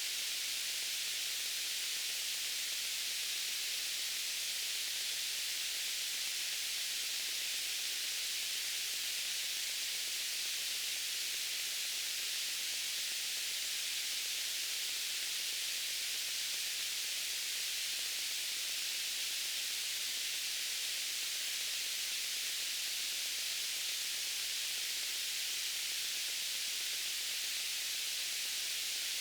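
Steady white-noise hiss, even and unchanging, weighted toward the high end.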